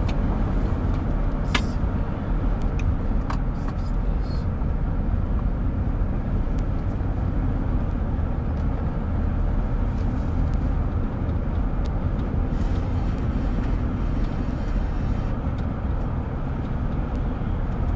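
Steady road and engine noise of a moving car heard from inside the cabin, with a few light clicks about a second and a half and three seconds in.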